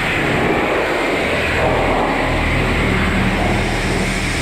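Pressure washer running steadily, its motor humming under the hiss of the water spray as a muddy dirt bike is washed off.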